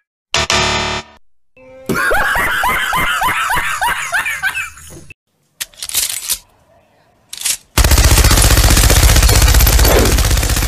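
A chain of edited cartoon and meme sound effects. It opens with a short buzz, then about ten quick rising squeaky notes like laughter, and two short hissing bursts. About eight seconds in, a loud rapid rattle like machine-gun fire starts and runs on.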